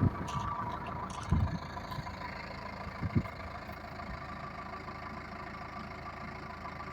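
Yanmar L50SS small air-cooled single-cylinder diesel engine running steadily at idle. Two brief low thumps come about a second and three seconds in.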